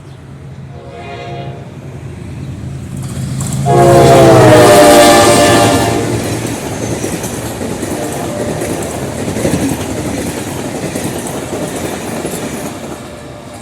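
General Electric diesel locomotive sounding its horn: a short faint blast about a second in, then a long loud blast from about 4 to 6 seconds. The train then runs past with its engine humming and its wheels clattering on the rails.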